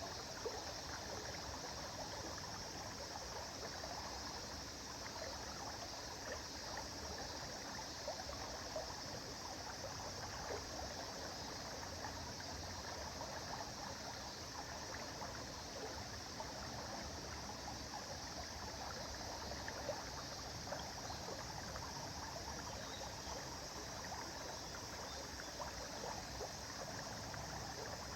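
River water flowing steadily, burbling with many small splashes and trickles.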